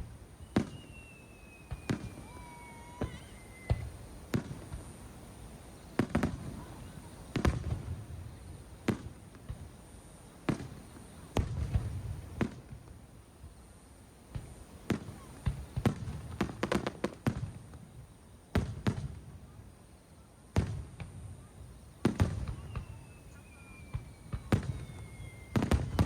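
Aerial fireworks shells bursting in a display: a steady series of sharp bangs, many followed by a low rumbling echo. Twice a long whistle slowly falls in pitch, once early and once near the end.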